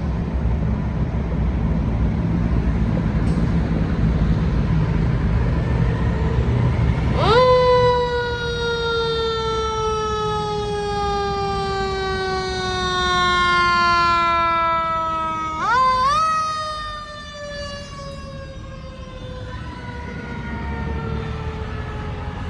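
Fire truck siren winding up sharply about seven seconds in, then slowly falling in pitch. It winds up again about sixteen seconds in and falls slowly once more. Before the siren starts, only a steady low engine noise is heard.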